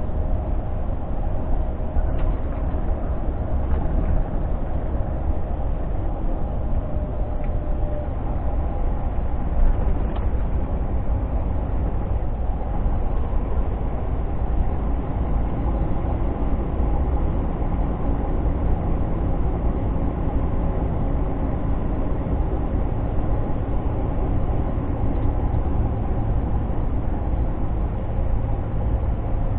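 Scania G460 truck's inline-six diesel engine running steadily under way, heard from inside the cab as a constant low rumble mixed with road noise.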